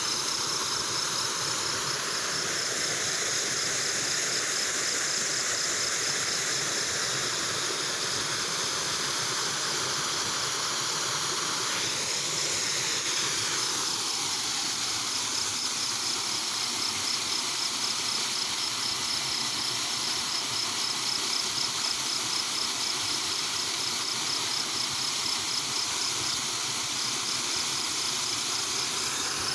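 Running water murmuring steadily, with a high insect trill pulsing rapidly alongside it that drops out briefly just before the middle.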